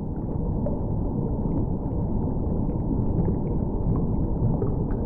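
Underwater reef ambience picked up by a hydrophone: a steady low rumbling wash with faint scattered clicks and no distinct fish calls.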